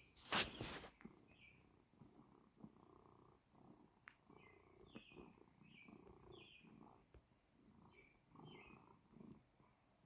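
Small birds chirping, short high chirps about once a second, over a faint low, rough sound that comes and goes in half-second bursts. A loud brief noise just under a second in.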